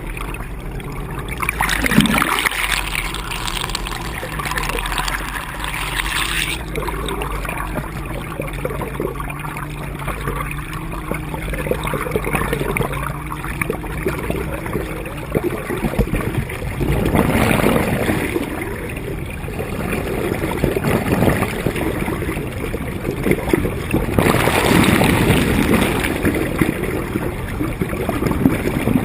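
Water rushing and gurgling along the hull of a moving sailboat, swelling louder several times, with a low steady hum through the first half.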